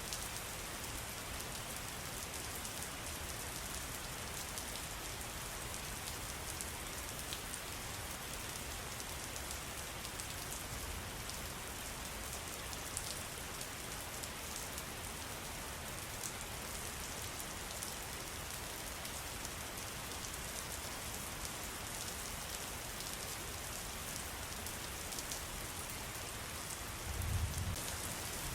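Steady water noise, rain-like: an even hiss with fine pattering drops. A low rumble swells in near the end.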